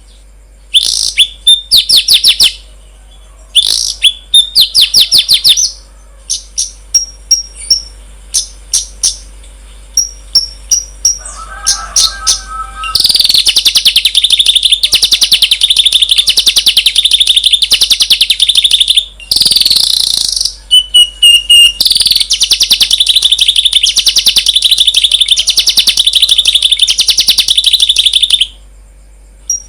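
Songbird song: short bursts of fast, high chirping trills, then two long runs of rapidly repeated high notes in the second half.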